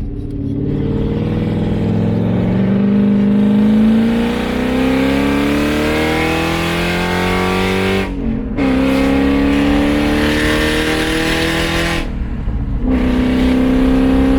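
BMW E34 540i V8 with its muffler and resonator removed, accelerating hard and stupid loud: the exhaust note climbs steadily in pitch, breaks off briefly at two upshifts about eight and twelve and a half seconds in, and climbs again from a lower pitch after each.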